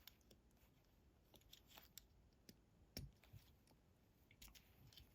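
Near silence with faint, scattered small clicks and taps, the loudest about three seconds in: fingers picking at the tight-fitting hood of a die-cast toy car that won't open.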